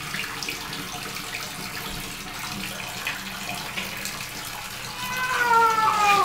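Tap water running steadily into a bathtub. About five seconds in, a cat gives one long, drawn-out meow that falls slightly in pitch: the protest of a cat being bathed.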